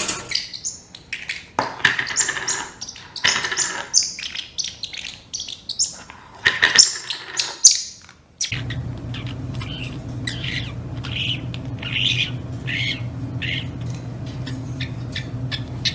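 A parrot squawking and chirping in quick, high-pitched calls. About eight seconds in the sound changes abruptly to another recording: shorter chirps and clicks over a steady low hum.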